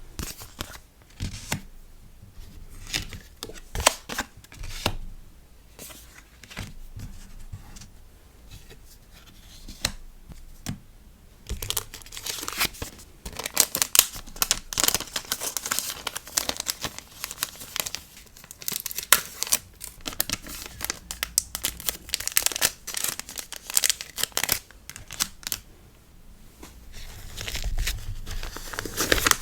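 Packing materials being handled by hand: scattered light taps and rustles, then from about twelve seconds in, dense crinkling and tearing of paper or plastic packaging.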